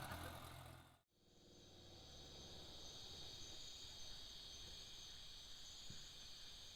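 Faint, steady high-pitched insect chorus of crickets or cicadas, in unbroken bands. In the first second an engine fades out before an abrupt break.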